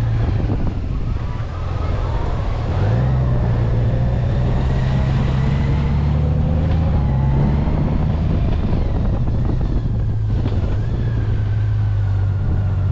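Honda Gold Wing's flat-six engine running at low speed, a steady low drone that steps up in pitch a few times.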